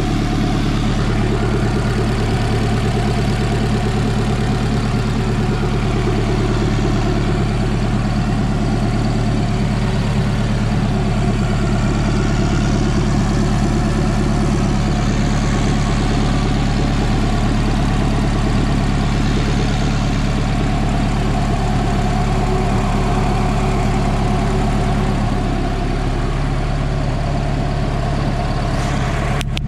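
Turbocharged Honda H22A four-cylinder engine idling steadily.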